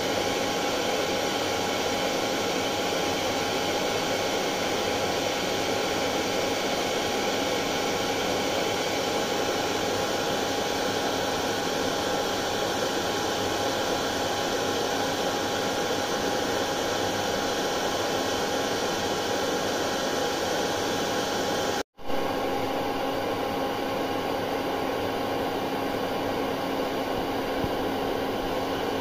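Hair dryer running continuously: a steady blowing hiss with a faint steady whine. The sound cuts out for a split second about two-thirds of the way through, then resumes.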